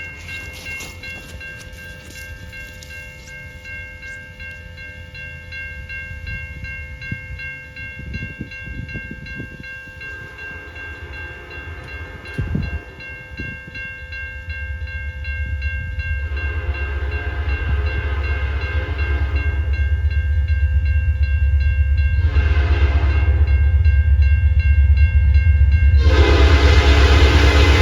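Approaching diesel locomotive sounding its horn in the grade-crossing pattern: two long blasts, a short one, then a long one that starts near the end and is the loudest. Under the horn the low rumble of the engine grows steadily louder as the train nears.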